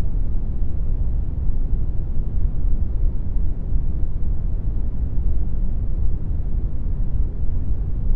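Synthetic brown noise made in Audacity: a steady, deep rumbling hiss with most of its weight in the low end and little in the highs.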